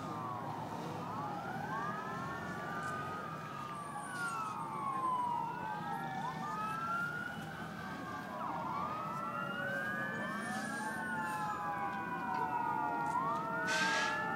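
Several emergency vehicle sirens wailing at once, their rising and falling tones overlapping out of step, over a low steady rumble. A brief hiss comes near the end.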